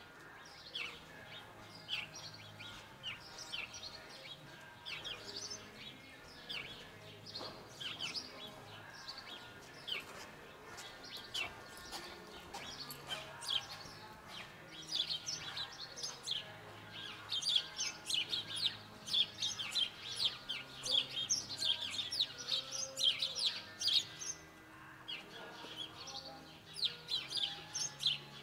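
Small birds chirping repeatedly: many short, high chirps, coming thickest in the middle and latter part.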